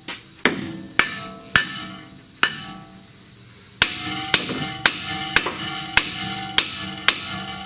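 Hammer blows on steel, each strike sharp with a short metallic ring after it. About eleven strikes: four spaced hits, a pause of over a second, then a quicker run at about two a second.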